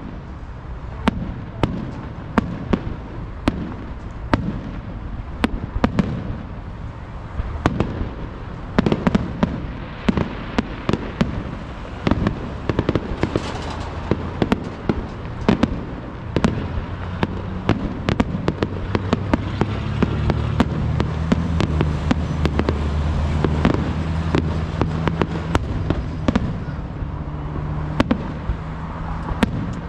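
Aerial fireworks going off in quick succession: a steady stream of sharp bangs and crackling shell bursts, several a second at times. A low steady hum sits underneath through the second half.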